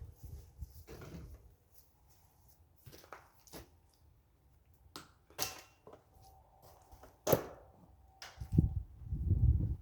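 Scattered clicks and knocks of hand tools and metal parts being handled while taking apart a riding lawn mower. There is a sharper clatter about seven seconds in and a low rumbling thud near the end.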